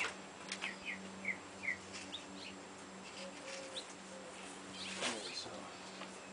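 Small birds chirping in short, scattered notes over a faint steady hum, with a brief louder noise about five seconds in.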